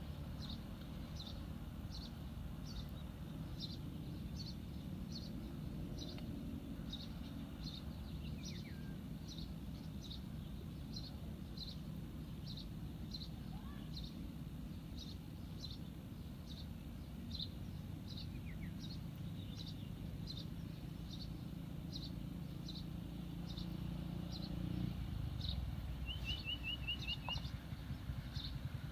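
A bird repeating a short high chirp about twice a second, with a brief rapid trill near the end, over a steady low outdoor rumble.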